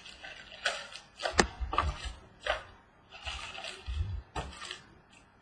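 Cardboard trading-card box and packs being handled on a table: scattered rustles, scrapes and light knocks. There is a sharp click about a second and a half in, and dull thumps near the start and about four seconds in.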